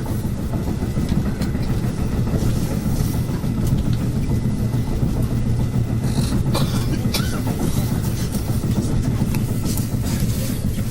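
Steady low rumble of the Okhotsk limited express, a diesel train, with a few faint brief sounds about two-thirds of the way through.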